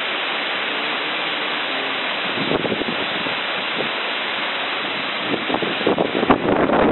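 Fast-flowing floodwater from a burst dam rushing past as a steady wash of noise, with wind buffeting the microphone in gusts from about two seconds in and more strongly near the end.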